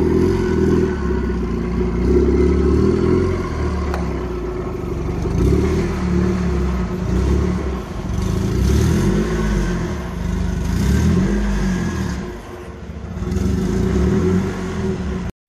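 Turbocharged Chrysler PT Cruiser four-cylinder engine running and being revved, its pitch rising and falling again and again; it cuts off suddenly near the end.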